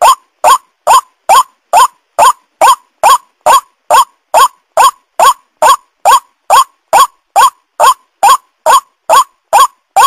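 White-breasted waterhen (ruak-ruak) calling, one short hooked note repeated evenly about twice a second without a break, played as a lure call.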